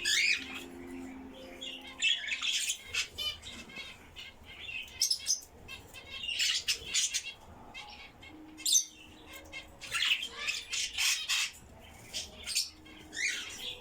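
Caged pet birds chirping and squawking in short, scattered bursts of high calls, a cluster every second or two.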